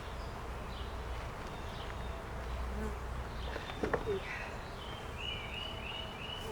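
Honeybees buzzing in a steady drone around an open hive, with a short knock about four seconds in.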